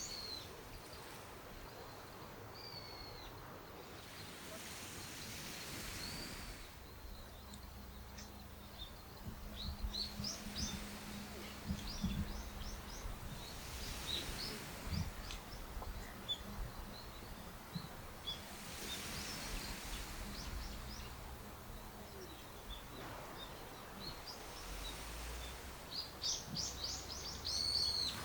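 Small birds chirping and calling on and off over a steady outdoor hiss, with a quick run of chirps near the end. A few soft low knocks come in the middle.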